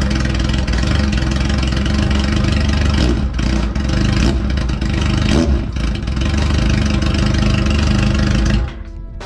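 Kawasaki Z750's inline-four engine running loudly through an open exhaust link pipe with no silencer fitted, rising briefly in pitch a couple of times. It is switched off and cuts out suddenly about eight and a half seconds in.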